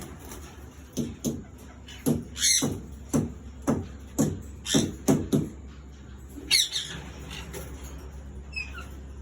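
Parrots squawking: a run of short, harsh calls, at times two or three a second, that thins out after about seven seconds to a few faint high chirps.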